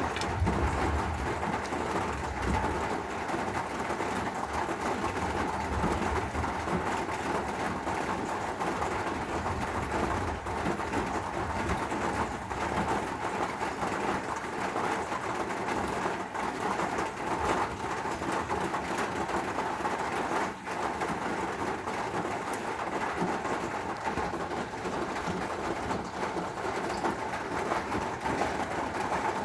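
Steady rain falling in a thunderstorm, with a low rumble of thunder in the first few seconds.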